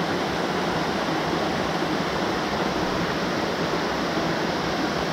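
Steady rush of creek water cascading into a deep pool.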